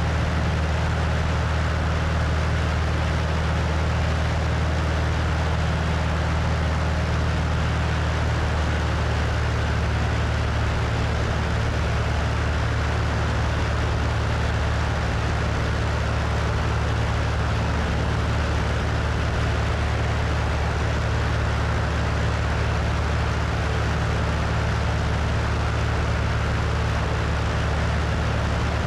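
Cessna 172's piston engine and propeller running steadily in flight, with wind rushing over a wing-mounted microphone.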